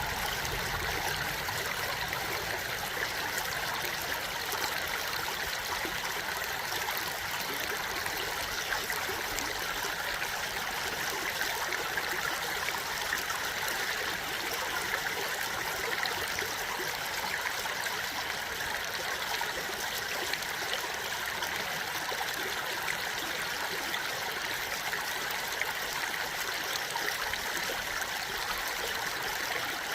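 A small stream flowing and trickling steadily, with an even, unbroken rush of water.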